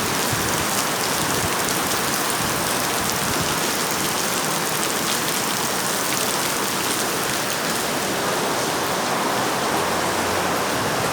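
Heavy tropical downpour of rain, a steady even hiss with faint ticks of individual drops.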